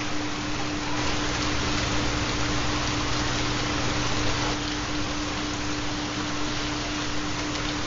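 Steady recorded rain sound with a continuous low tone under it: the carrier of a 4 Hz theta binaural beat.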